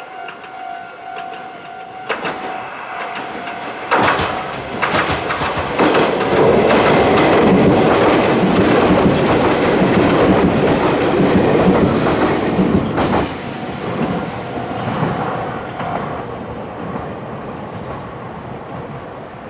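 A Japanese level crossing alarm rings with a pulsing ding for the first couple of seconds. Then a Meitetsu electric train runs past over the crossing, with the clickety-clack of its wheels over the rail joints, loudest from about six to thirteen seconds in, then fading away.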